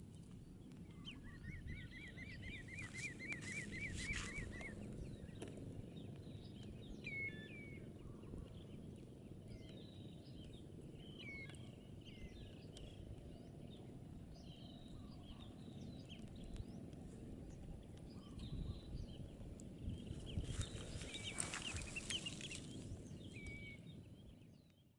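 Faint wild bird calls: a rapid trill of evenly repeated notes about a second in, lasting some three seconds, then scattered short chirps, over a low steady rumble.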